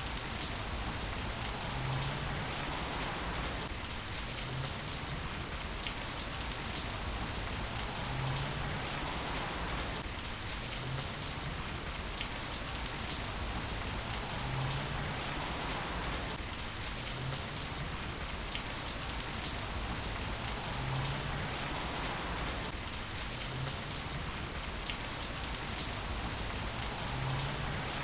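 Heavy rain falling steadily on hard surfaces, with individual drops tapping sharply here and there.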